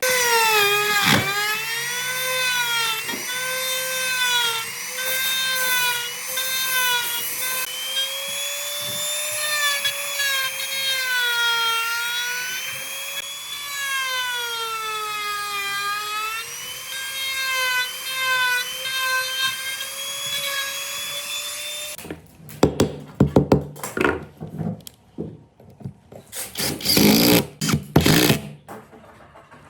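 An electric power tool's motor running on wood with a high whine whose pitch dips and recovers again and again, stopping about 22 seconds in. A run of short, uneven bursts of noise follows.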